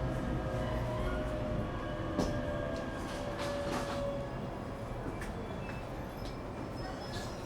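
Onboard running sound of an ET127 series electric train slowing for a station stop: the Toyo GTO-VVVF inverter's steady tone during braking fades out about four seconds in, over wheel and track rumble with a few sharp clicks. The overall sound gradually quietens as the train slows.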